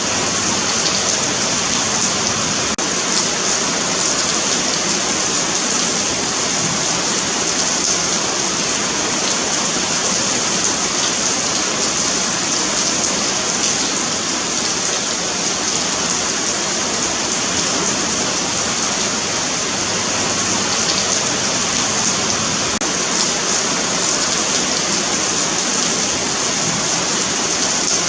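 Steady rain falling on a pavement sidewalk, a continuous hiss of drops with faint fine patter and no change in intensity.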